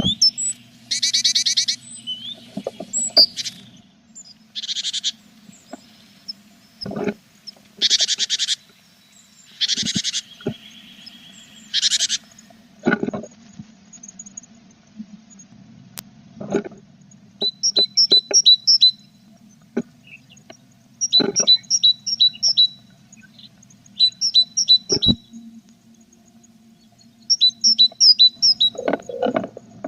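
Tit chicks and adult in a nest box: several short hissy bursts of calling in the first half, then quick runs of high chirps in the second half. Occasional soft knocks of birds moving in the box, over a faint low steady hum.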